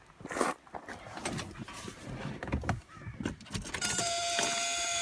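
A few scattered knocks and clicks, then, about four seconds in, the starter motor of a 1983 Mercedes-Benz 300CD's five-cylinder OM617 diesel engages and cranks with a steady whine: a first cold-start attempt after four years in storage.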